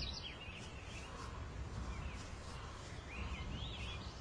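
Small birds chirping over a steady background hiss and low rumble: a few short scattered calls, with a quick run of rising and falling notes about three seconds in.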